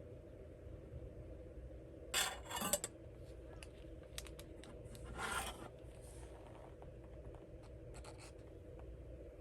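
Handling noises: two short scrapes or rustles, about two and five seconds in, with a few small clicks between and after.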